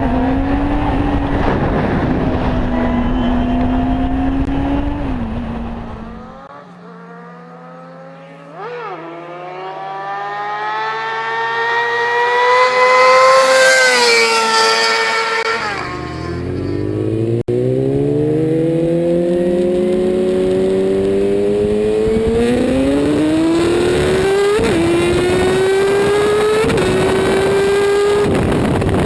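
High-revving sportbike engines: one bike climbs in pitch to a loud peak about halfway through and drops in pitch as it passes, then after an abrupt cut another bike accelerates hard, pitch rising through several quick upshifts.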